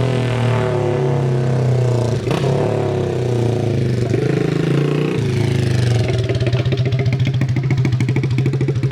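Apollo 110cc pitbike's single-cylinder four-stroke engine running with no muffler, its pitch rising and falling, then dropping about six seconds in to a low, uneven idle where each firing pulse can be heard. The idle is set a little low, so the engine is close to stalling.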